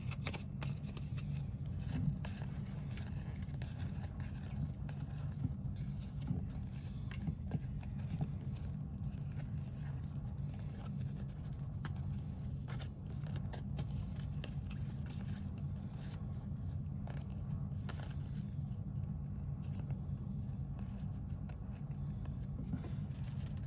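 Trading cards and pack wrappers being handled and shuffled, making small scattered clicks and scrapes, over a steady low hum.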